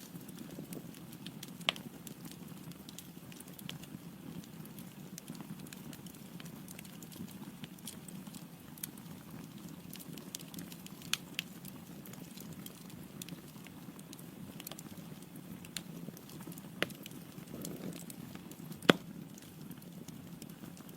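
Wood logs burning in a fireplace: a steady low rumble of flame with scattered sharp crackles and pops, the loudest pop near the end.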